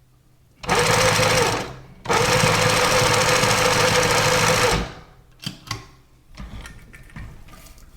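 High-head sewing machine running fast in two bursts: about a second, a short pause, then nearly three seconds, with a steady high whir. A few light clicks and rustles follow.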